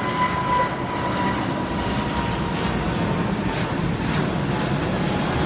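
Jet airliner passing on departure, its engines a steady loud rush with a thin whine that sags slightly in pitch in the first second or so.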